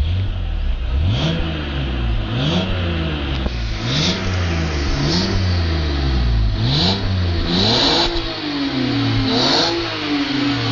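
BMW 525i E60 LCI straight-six engine on its stock exhaust, revved in about eight quick blips. Each blip rises in pitch and falls back, with a longer hold at higher revs near the end.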